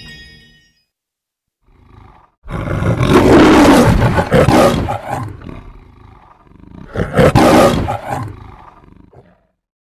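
Lion roaring for the Metro-Goldwyn-Mayer logo: a short quiet growl, then two long loud roars, the first starting about two and a half seconds in and the second about seven seconds in.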